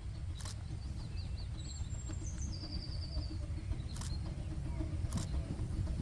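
Small birds chirping and trilling over a steady low rumble, with a few sharp clicks about a second or more apart.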